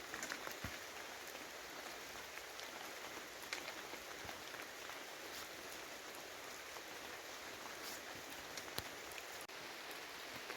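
Steady rain falling, with scattered sharp taps of drops close by.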